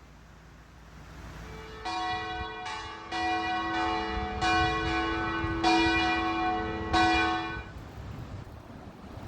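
Bells chiming a short run of about six strokes on a few different notes at uneven intervals, each ringing on into the next. All of them stop together about a second and a half before the end.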